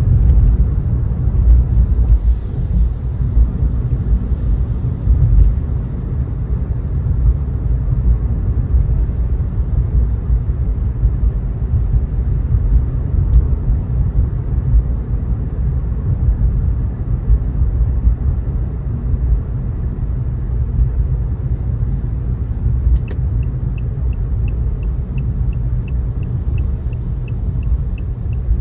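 Steady low rumble of a car's road and tyre noise while driving. About 23 seconds in, a regular high-pitched ticking starts, roughly two ticks a second, and keeps going.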